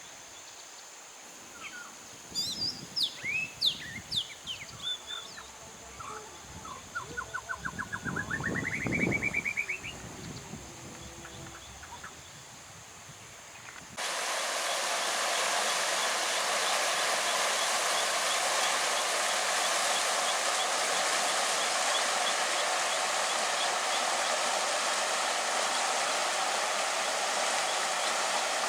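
Birds calling, with scattered chirps and a quick run of notes rising in pitch, over some low rumbles. About halfway through the sound cuts abruptly to the steady rush of a stream.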